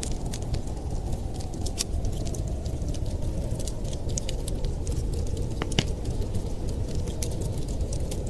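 Wood fire crackling: many small, sharp pops and snaps at irregular moments over a steady low rumble.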